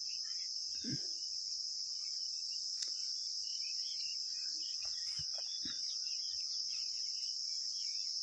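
Steady, high-pitched chirring of a cricket chorus. A few faint clicks and knocks sound over it.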